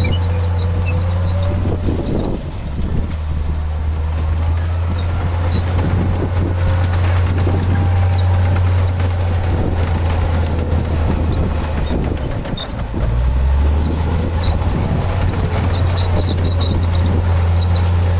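Heavy diesel engine of an earthmoving machine running steadily under load, with a faint whine above it. Its note shifts briefly about two seconds in and again about thirteen seconds in.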